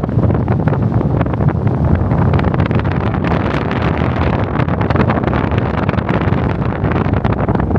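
Wind buffeting the camera's microphone: a loud, steady rumbling noise with constant gusty flutter.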